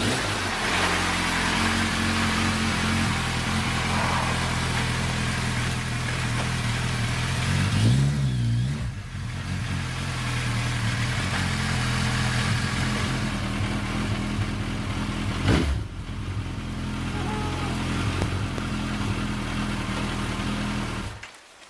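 A motor vehicle engine idling steadily. It revs up and back down once, about eight seconds in, and the sound stops abruptly near the end.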